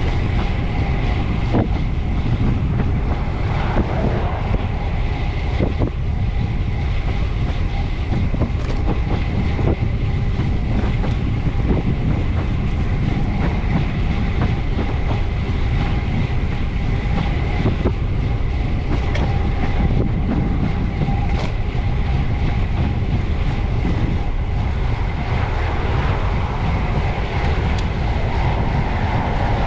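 Steady wind rush and road rumble from a camera mounted low on a bicycle ridden at speed, with a few faint ticks.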